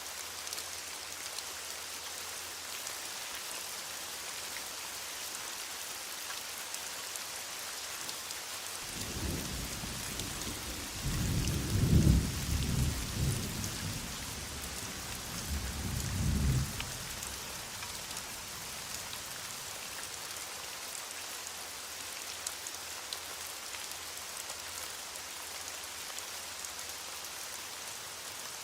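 Heavy rain falling steadily, with a roll of thunder rumbling in about a third of the way through, loudest near the middle, swelling once more and then dying away.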